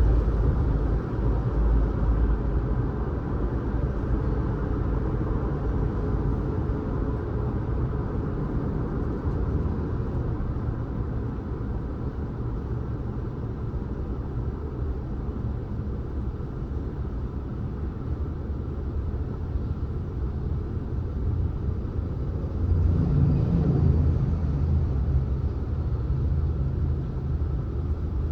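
Car driving along a road: steady low engine and tyre rumble, growing louder with a deeper engine tone near the end.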